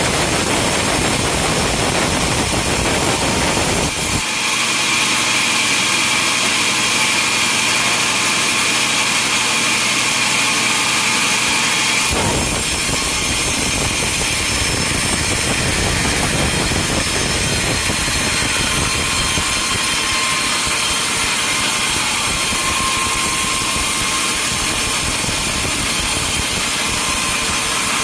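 Sawmill machinery running, with a saw cutting through logs. The sound changes abruptly twice, about four and about twelve seconds in. In the middle stretch a steady high whine rides over it.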